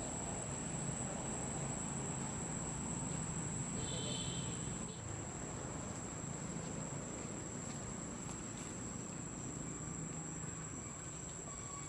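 Insects droning with one steady, high-pitched continuous tone, over a low background rumble. A brief high chirp comes about four seconds in.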